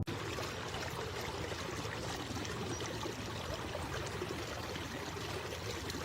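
Steady, even rushing noise that PANN files with streams and pouring water.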